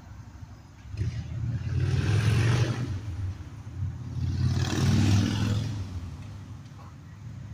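Two motor vehicles passing one after the other, each a swell of tyre and engine noise that rises and fades over about two seconds.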